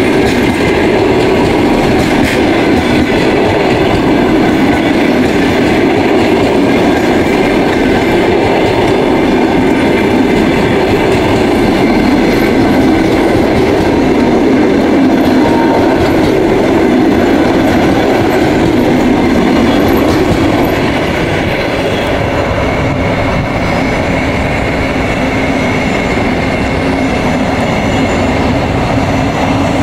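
A train running past on the rails, a loud steady noise of wheels and cars that eases a little about 21 seconds in.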